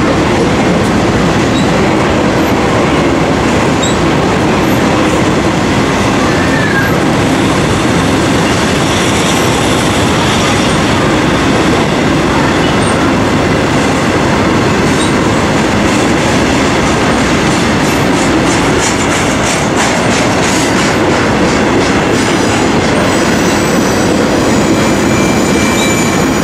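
BNSF intermodal freight train's container and trailer cars rolling past on the rails, a loud, steady rumble of wheels, with a run of sharp clicks in the last several seconds.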